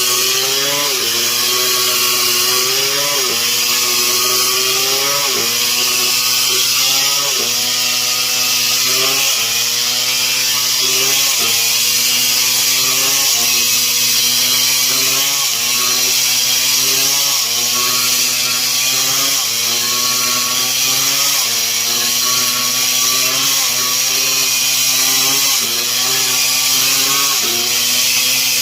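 Stihl MS 070 two-stroke chainsaw running hard while cutting wood. Its pitch dips and recovers about every two seconds as the chain loads and frees in the cut.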